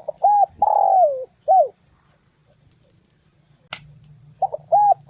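Spotted dove cooing: a phrase of four notes (a short note, an arched note, a long falling note, then a short one), repeated about four seconds later. A single sharp click sounds between the two phrases.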